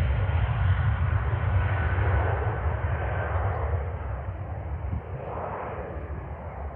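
Jet aircraft engine noise, a deep rumble with a rushing hiss over it, steadily fading as the plane moves away.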